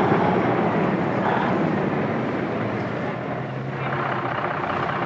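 Big-rig truck's diesel engine running as it drives on the road, a steady loud noise with a low hum. The sound shifts about three and a half seconds in.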